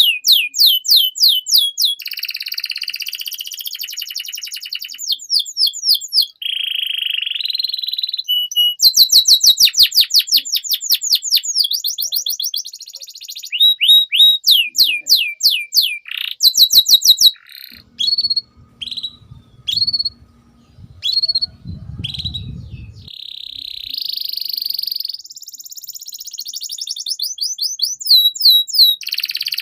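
Domestic canary singing a long, loud song: rapid runs of repeated chirps, each sweeping down in pitch at about ten a second, alternating with buzzing trills and single whistled notes with short gaps. A faint low rumble sits under the quieter stretch in the middle.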